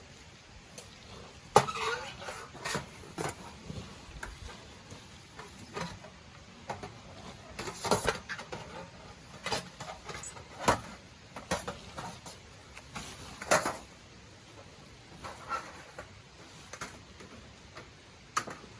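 Metal parts of a Bundok Lotus fire pit being handled and fitted together: irregular clinks, clanks and knocks of thin metal plates, the loudest about a second and a half in.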